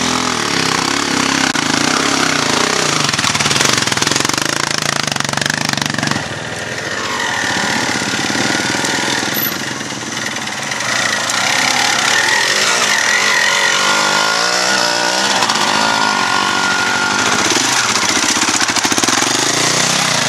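Dirt bike engines running and revving, the pitch rising and falling several times.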